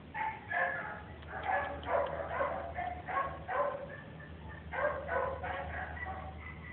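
A dog barking repeatedly in short barks, about two or three a second, easing off near the end.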